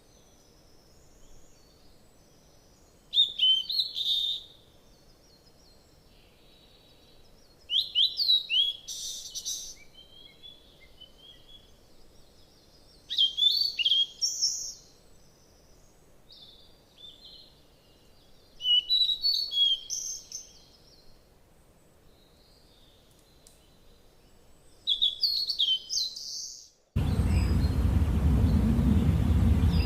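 Wild birds chirping in short bursts of quick falling calls, about every five seconds. Near the end the sound cuts abruptly to a loud steady noise that is heaviest in the low end.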